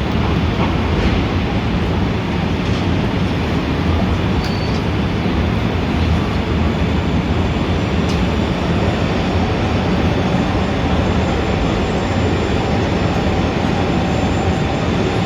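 Steady city traffic rumble: a continuous low drone of vehicles with a dense hiss on top, and a brief faint high tone about four and a half seconds in.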